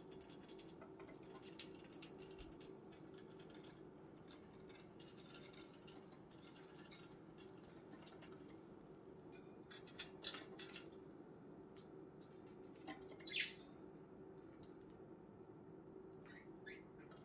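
Faint budgerigar chirps and small clicks and scratches of birds moving about the cage, over a steady low hum. A few short calls come about ten seconds in, and a sharper, louder one follows about three seconds later.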